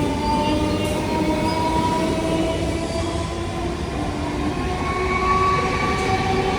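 Kolkata suburban EMU local train running through the station: a steady rumble with several whining tones that drift slightly in pitch.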